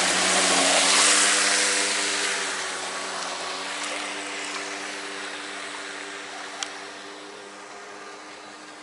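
Electric RC V-hull boat running on the water: a steady motor whine under the hiss of the hull through the water, loudest about a second in and then fading as the boat moves away. A single sharp click comes about two-thirds of the way through.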